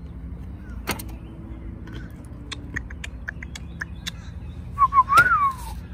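Light metallic clicks as stainless screws are set into a rod holder's flange, then near the end a bird calls once, a short note that rises and falls.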